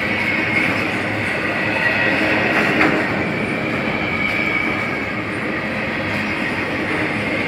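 Double-stack container freight train rolling past close by: a steady rumble and clatter of steel wheels on the rails, with a thin, high wheel squeal held over it and a sharp clack about three seconds in.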